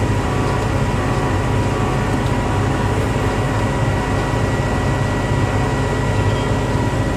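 Case IH 7230 Axial-Flow combine's diesel engine running steadily while warming up, heard from inside the cab, with a thin steady high whine over the low drone.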